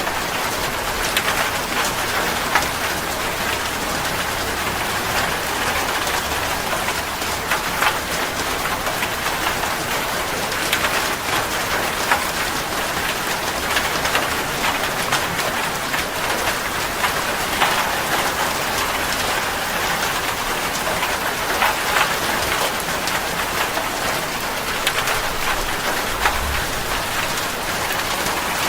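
Steady rain falling: a constant hiss dotted with many small, distinct drop patters.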